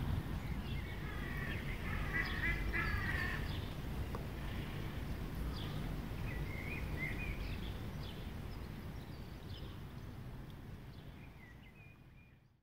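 Birds calling in short bursts over a steady low outdoor rumble, the sound fading out near the end.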